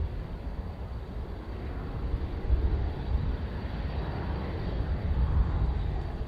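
Strong gusty wind buffeting the microphone, a low, uneven rumble, with the faint sound of a distant jet airliner's engines swelling in the middle.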